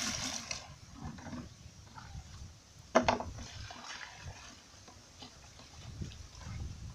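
Water splashing and sloshing as a container is drawn up from a well on a rope, with a sharp knock about three seconds in.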